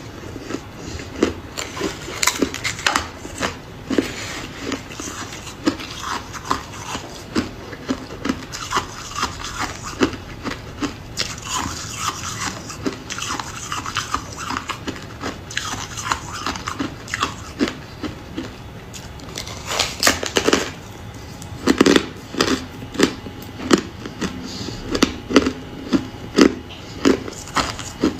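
Hard ice being bitten and chewed: a steady run of sharp crunches, about two a second, with a louder cluster of crunching about twenty seconds in.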